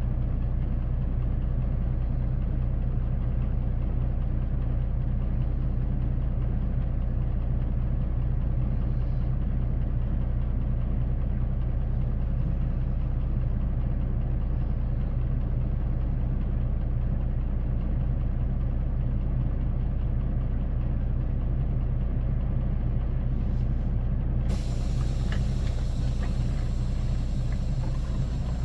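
Semi truck's diesel engine running steadily with a low, even hum, heard from the cab. About 24 seconds in, a steady high hiss joins it.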